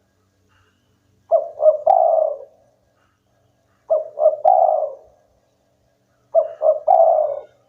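Spotted dove (tekukur) cooing three times, about every two and a half seconds. Each phrase is two short notes followed by a longer one.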